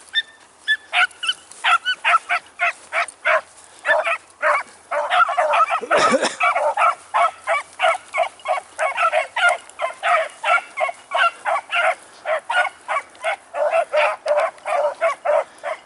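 Beagles baying on a rabbit's track: a steady run of short, rapid barks, several a second, with voices overlapping in the middle as the dogs run the line.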